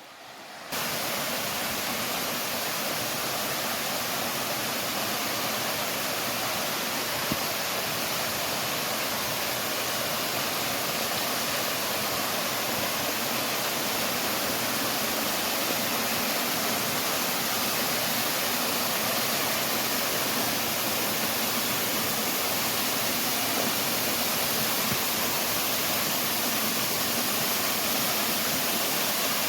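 Upper Panther Creek Falls, a steady rushing roar of falling water that starts suddenly just under a second in.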